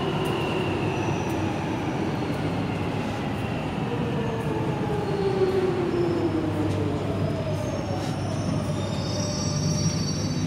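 London Underground Jubilee line train running through the station, a steady rumble with wheel squeal and a whine that slides slowly down in pitch.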